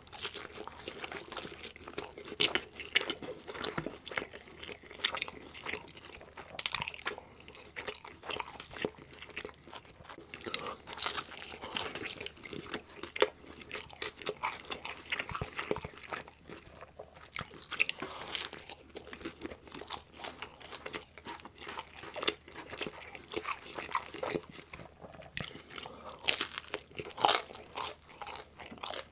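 Close-miked chewing and biting of meat-laden pizza, with crisp crust crunching and wet mouth sounds in irregular bursts of bites and chews.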